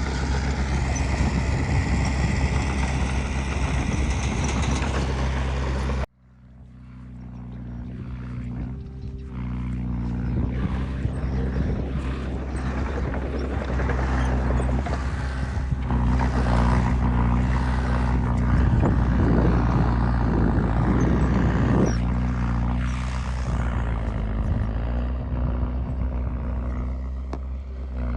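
Heavy diesel engine running steadily. It breaks off abruptly about six seconds in, then comes back in and builds up again, with a rougher rattling noise over it through the middle.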